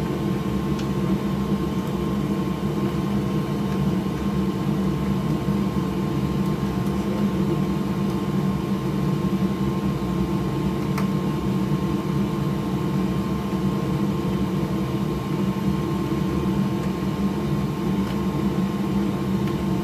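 Steady whirring hum of an electric fan or small motor, with one faint click about eleven seconds in.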